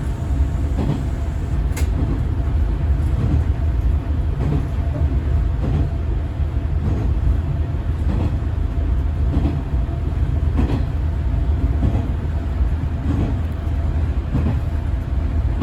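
Diesel railcar running along the line, heard from beside the driver's cab. There is a steady low engine and running rumble with a faint steady whine, and wheels click over rail joints about every second or so.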